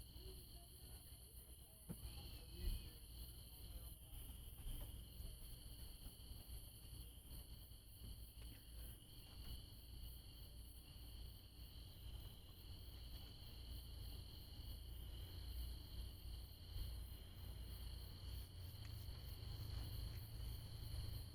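Crickets chirring in a steady night chorus, high-pitched and unbroken, over a faint low rumble. A single soft knock comes about three seconds in.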